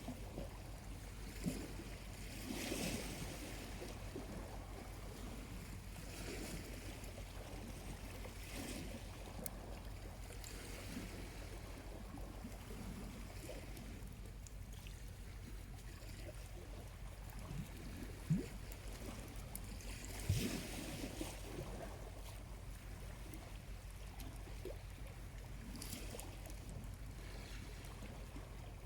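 Small waves washing gently onto the shore, a soft wash swelling every few seconds, with a few short pops from a slowly burning charcoal campfire, two of them sharper about two-thirds of the way through.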